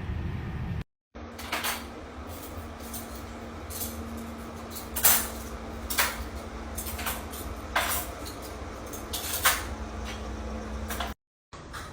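Irregular sharp clicks and knocks, like objects being handled and set down, over a steady low hum. The sound drops out completely for a moment twice.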